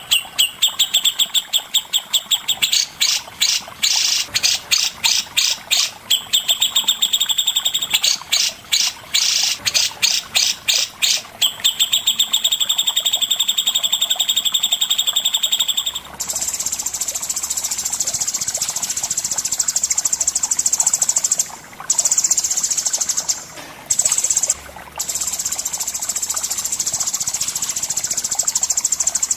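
Recorded songbird calls of the kind used for masteran training, from cucak jenggot and cendet: bursts of rapid, high-pitched repeated notes and trills for about the first half. Then an almost unbroken high, buzzy trill with a few short breaks.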